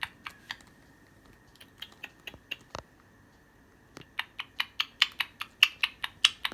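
A run of short, sharp clicks, scattered at first, then coming quickly, about four or five a second, from about four seconds in.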